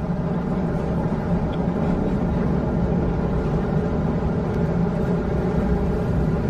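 Steady rumble of a moving passenger vehicle heard from inside the cabin.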